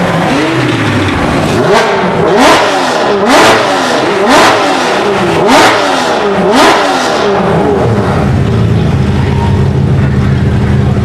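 A supercar engine revved hard in about six quick blips, roughly one a second, each pitch shooting up and dropping back, echoing in a tunnel. After that it settles into a steady, lower-pitched running note as the car rolls on.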